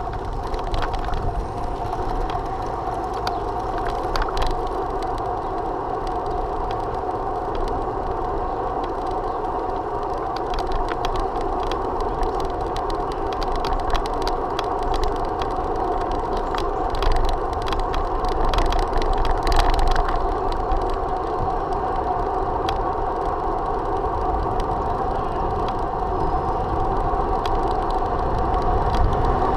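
Steady riding noise from a bicycle rolling along the road, with wind rumbling on the microphone, a constant mid-pitched hum and scattered small clicks and rattles.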